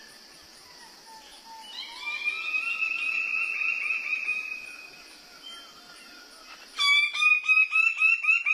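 A bird calling: a long, slightly rising whistled note, then a fast run of sharp, clipped notes about eight a second, over a steady high insect-like hiss.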